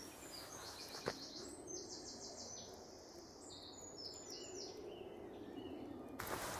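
A songbird singing, with phrases of quick repeated high notes that step up and down in pitch. A single sharp crack comes about a second in, and a steady hiss rises near the end.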